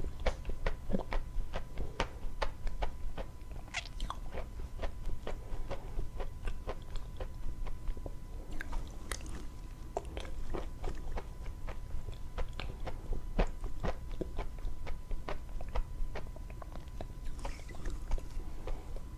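Dry chalk being bitten and chewed close to the microphone: a dense, irregular run of sharp crunches, several a second.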